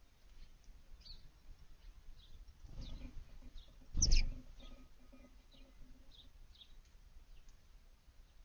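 Small backyard birds giving short, high chirps on and off, with a loud thump about four seconds in.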